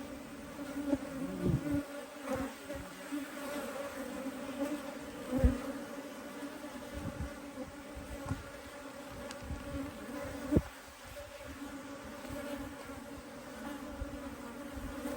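Honeybees buzzing steadily from an open hive, a continuous droning hum. A few dull knocks break through, the loudest about five and a half and ten and a half seconds in.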